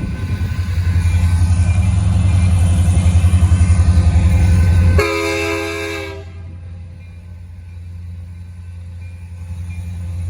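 Locomotive rumbling close by, then a short chord blast of its air horn about five seconds in, lasting about a second. After the horn the rumble drops away and builds again near the end.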